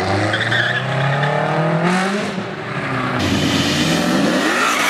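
A car engine accelerating hard, its pitch rising for about two seconds; after a break about two seconds in, an engine pitch rises again.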